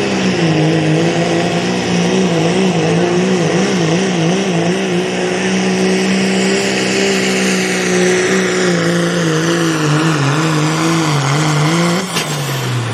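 Turbocharged diesel pickup truck engine held at high revs under heavy load while pulling a sled, its pitch wavering up and down. About twelve seconds in, the revs fall off quickly as the throttle is let off.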